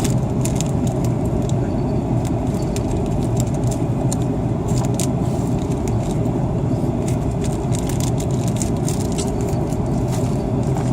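Steady, loud cabin roar of an Airbus A330-300 airliner, deepest in the low range, with light irregular rattling clicks from cabin fittings throughout.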